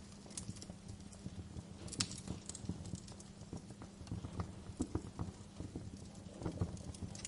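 Fire crackling, with scattered sharp pops over a low, steady rumble of flames; the sharpest pop comes about two seconds in.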